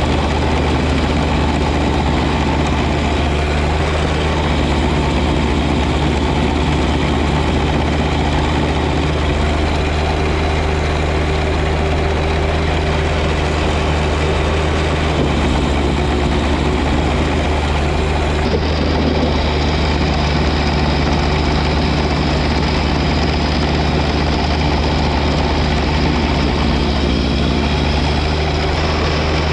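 John Deere 1025R compact tractor's three-cylinder diesel engine running steadily at an even pitch.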